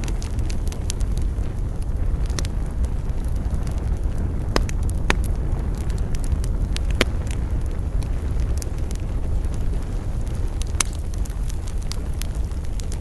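Wood fire burning in a fireplace: a steady low rumble of flames with irregular sharp crackles and pops, the loudest pops about seven seconds and eleven seconds in.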